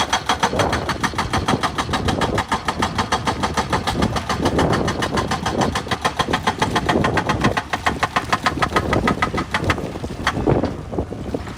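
Excavator's diesel engine running with a rapid, even clatter of about ten beats a second. The sharper upper part of the clatter drops away about ten seconds in.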